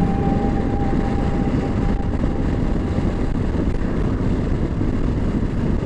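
Steady road noise from a Honda Africa Twin motorcycle under way: engine and wind rushing over the microphone.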